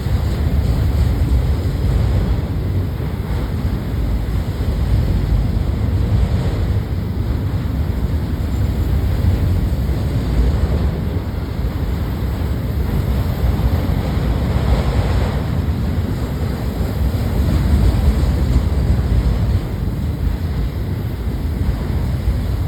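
Steady rumble of a freight train rolling past, mixed with wind buffeting the microphone.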